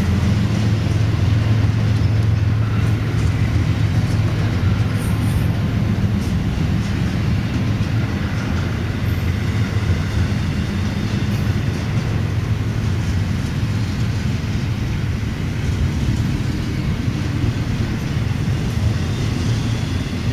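Double-stack intermodal freight train's well cars rolling past close by: a steady low rumble of steel wheels on the rails.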